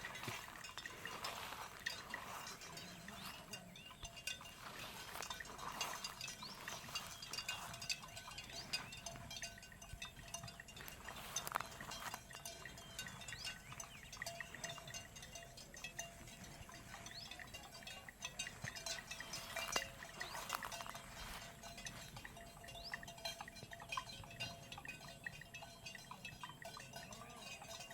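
A herd of farm animals milling about close by, with many small clinks and clicks scattered throughout.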